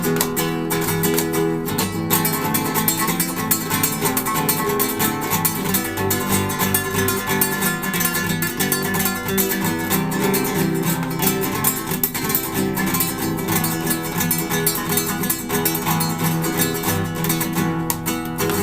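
Acoustic guitar playing: a continuous run of quick plucked notes and chords.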